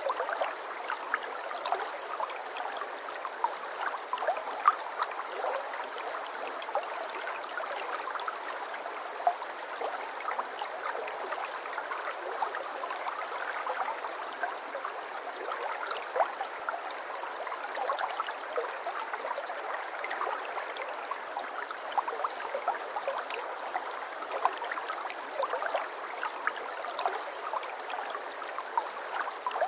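Small brook babbling and trickling over stones in a steady flow, with many small gurgles and splashes.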